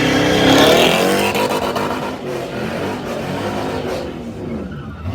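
Car engine revving hard, its pitch climbing and then falling about a second in, then fading away over the next few seconds.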